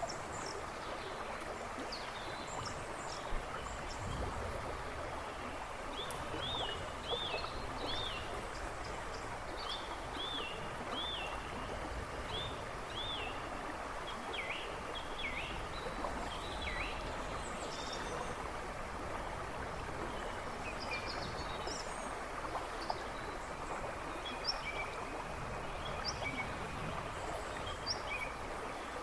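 A river rushing and babbling steadily, with birds singing in the woods behind it: a run of quick, repeated looping notes between about six and eleven seconds in, and scattered calls through the rest.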